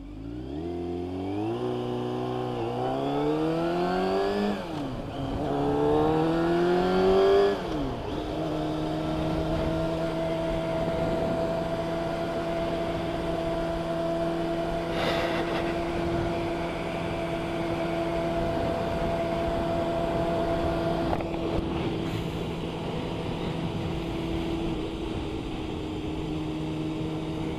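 Motorcycle engine accelerating hard, its pitch rising through the first gears with a dip at each gear change, then settling into a steady note cruising at constant speed.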